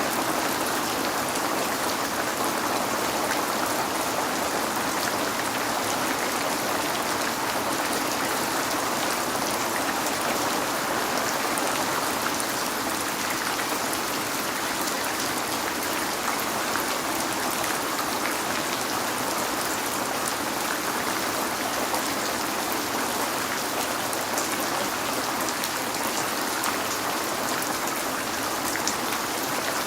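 Steady heavy rain on window glass, an even hiss with scattered drops tapping throughout.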